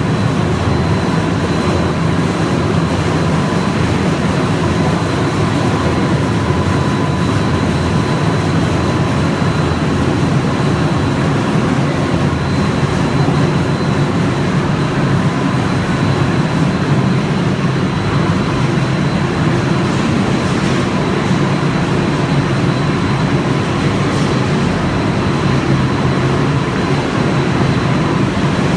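Steady mechanical rumble and noise of snack food production line machinery running, with a faint high steady whine above it.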